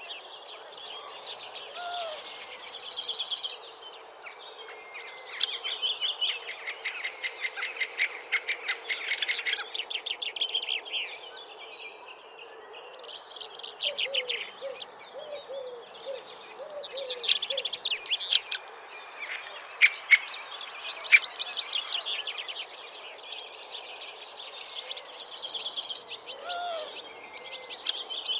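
Songbirds singing: repeated fast trilled phrases, several overlapping, with sharp high notes between them over steady background hiss. A run of short, lower chirping notes comes near the middle.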